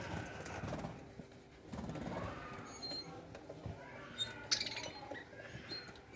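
Parrots making low, soft chattering calls, with one sharp click about four and a half seconds in.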